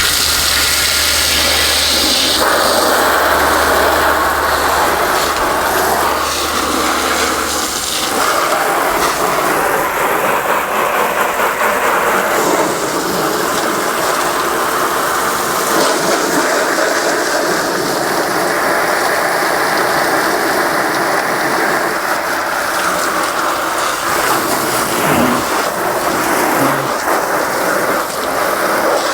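Water from a hose spraying steadily onto a boat's hull and deck as it is rinsed, with a low hum in the first several seconds.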